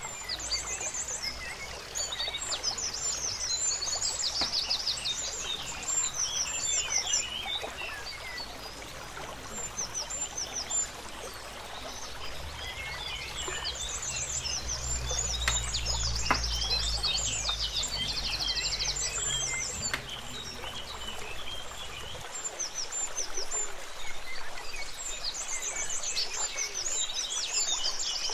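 Songbirds chirping and trilling, many short calls and quick rattling trills that keep repeating over a soft background hiss.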